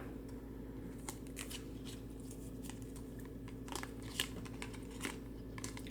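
Trading cards being handled and flipped through: faint scattered light clicks and rustles, over a low steady hum.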